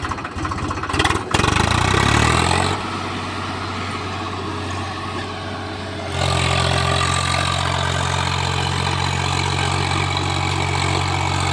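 Swaraj tractor's diesel engine revving up about a second in, easing back, then running harder and steady from about six seconds in.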